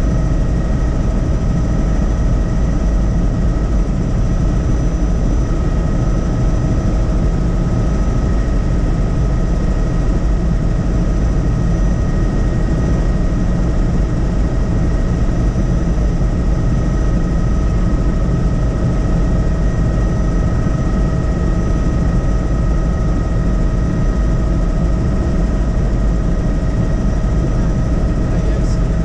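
A tour helicopter running steadily in flight: a dense, unchanging rumble from the rotors and engine, with a steady high whine over it.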